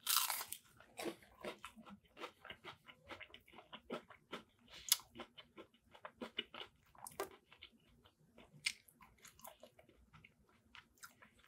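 A bite into a piece of crisp battered fried haddock, a loud crunch at the start, followed by chewing with many small crunches and wet mouth clicks.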